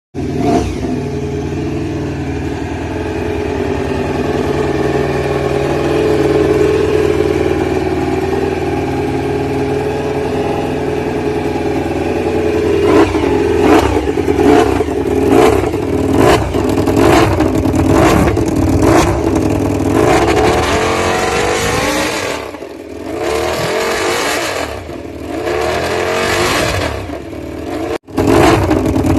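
Honda RC213V MotoGP bike's 1000 cc V4 engine running at a steady idle, then from about halfway through revved in repeated sharp throttle blips, with a brief break near the end.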